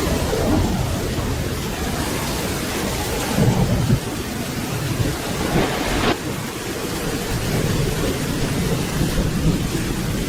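Steady rain falling, with low thunder rumbling under it that swells about three to four seconds in.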